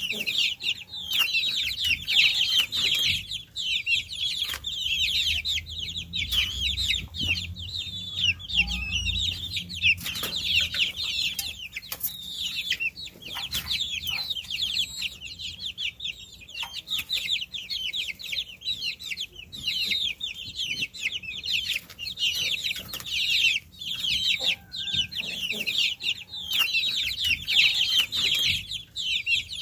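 A brood of baby chicks peeping without a break, many short, high chirps overlapping one another.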